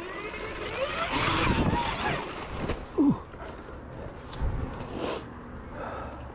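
Dirt bike engine running while riding a rough trail, the revs rising and falling, with a brief louder falling sound about three seconds in.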